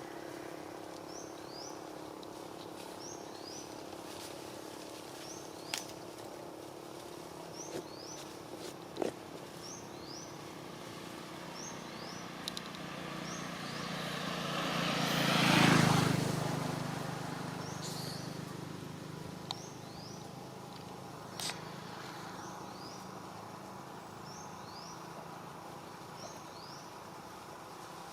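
Outdoor ambience with a bird calling steadily in short high chirps that fall in pitch, usually in pairs about once a second. A motor vehicle passes, swelling and then fading, loudest about halfway through.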